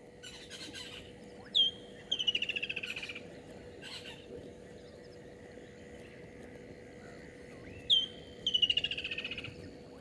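A wild bird calling twice, about six seconds apart: each call is one sharp, high, downslurred note followed by a rapid trill that falls slightly in pitch and lasts about a second.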